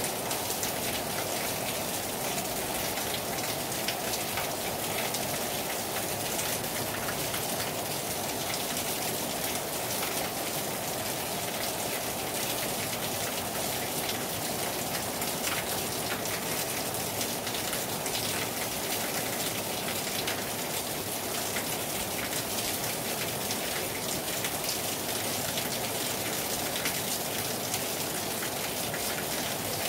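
Heavy rain falling hard on a terrace: a steady, dense patter of drops that never lets up.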